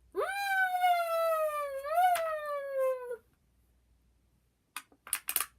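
A child's homemade can noisemaker sounding a Lamborghini-style engine wail: one high held tone about three seconds long that jumps up at the start, slides slowly down, and lifts briefly about two seconds in. A few sharp clicks follow near the end.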